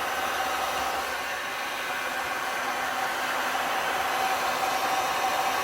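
Heat gun blowing steadily on its highest fan setting with the heat turned low, a steady rush of air with a faint whine.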